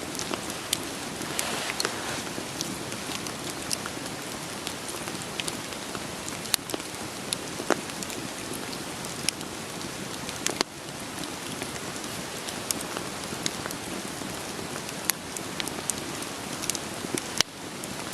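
Steady rain falling, with a wood fire crackling over it: irregular sharp pops and snaps of burning firewood scattered through the rain.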